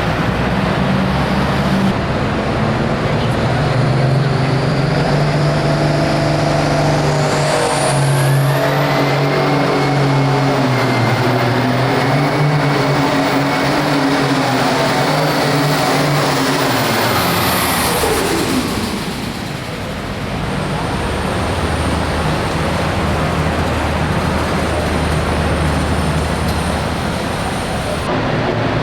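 Hot farm pulling tractor's turbocharged diesel engine running hard under load, with a high turbo whistle that rises and holds for about ten seconds. The whistle then falls away as the engine lets off, and it settles to a lower, steady running sound.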